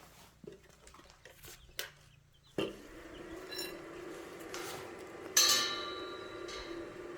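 A few light clicks and taps, then a machine switches on about two and a half seconds in and hums steadily. A couple of seconds later a piece of sheet or bar metal is struck or dropped with a loud clank that rings briefly.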